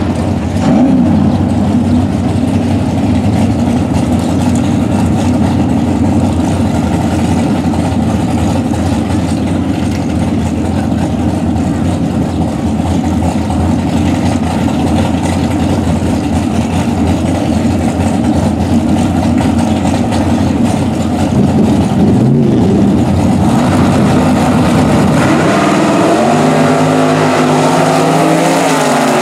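Drag-racing cars' engines rumbling loudly at the start line, with a brief rev. Near the end the cars launch and accelerate down the strip, their engine note climbing steadily in pitch.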